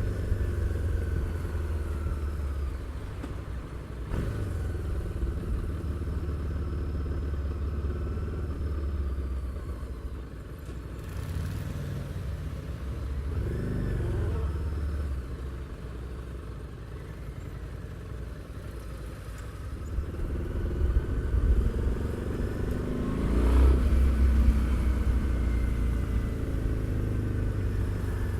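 Harley-Davidson Street 750's V-twin engine and exhaust running under way, its pitch rising and falling several times as the bike accelerates and eases off, with the strongest rev about three-quarters of the way through.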